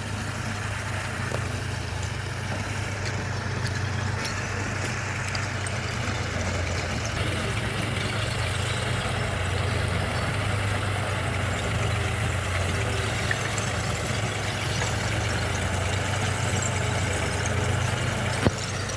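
Tractor diesel engine running steadily at low revs, a constant low drone. A single sharp click or knock near the end.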